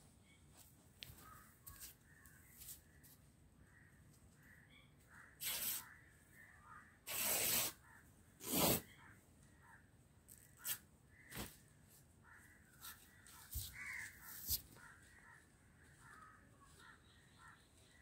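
Repeated bird calls, with a few loud harsh bursts in the middle and several sharp knocks later on.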